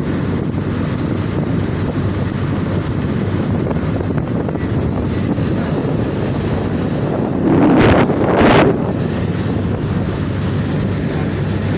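A boat's engine running steadily under way, with wind buffeting the microphone. About two-thirds of the way through comes a brief, louder rush of noise in two parts.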